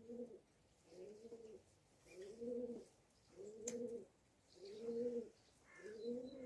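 A pigeon cooing: a run of six low coos, each rising and falling in pitch, about one every second.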